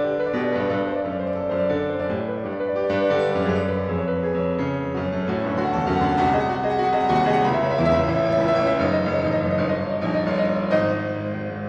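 Slow, relaxing piano music, single notes and chords held at an even level.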